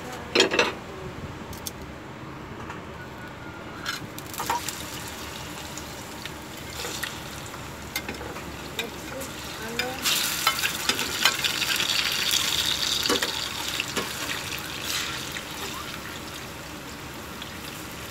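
Halved saba bananas dropped into a frying pan of hot oil and caramelized sugar, sizzling sharply from about ten seconds in and easing over a few seconds. Metal tongs and a spatula click and scrape against the pan, with a low frying hiss throughout.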